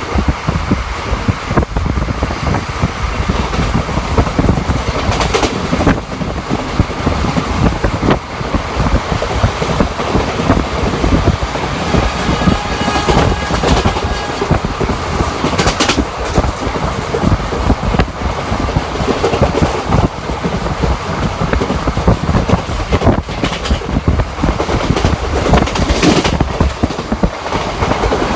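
An Indian Railways ICF passenger coach running at speed: a loud, steady rumble and rattle, with the wheels clicking sharply over rail joints every few seconds.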